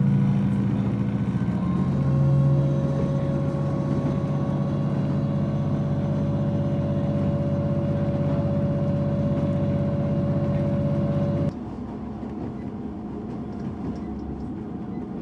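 Diesel passenger train engine droning under power, heard from inside the carriage, with a slowly rising whine over a steady low note. About eleven seconds in it drops abruptly to a quieter, even running noise.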